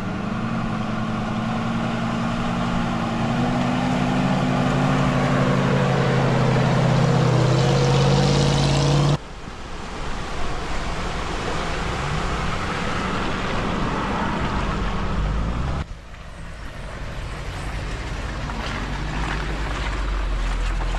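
Off-road vehicle engine running under load, its pitch slowly climbing, cut off abruptly about nine seconds in; two more stretches of vehicle driving noise follow, each breaking off sharply.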